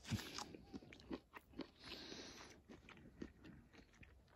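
Faint, wet chewing of a juicy sweet lemon wedge in the mouth: scattered small clicks and smacks.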